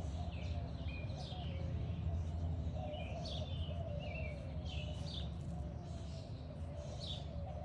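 Songbirds chirping on and off, short high calls about a second or two apart, over a steady low background rumble.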